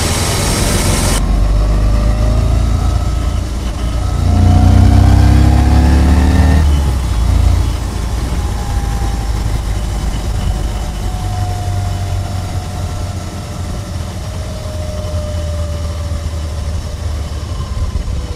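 Morgan 3 Wheeler's air-cooled S&S V-twin engine running. About four seconds in it rises in pitch as it accelerates hard, then settles to a steadier, quieter run. A hiss of wind noise cuts off suddenly about a second in.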